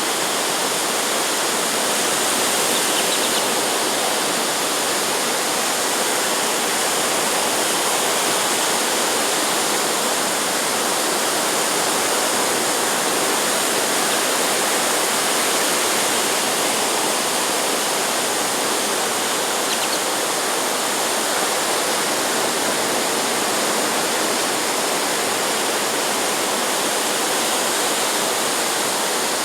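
Steady, even rush of surf breaking along the beach, with no single wave standing out.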